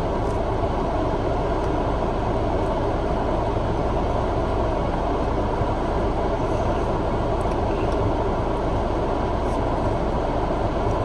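Steady noise of a parked car running, heard inside the cabin: engine and climate fan giving an even rush over a low hum.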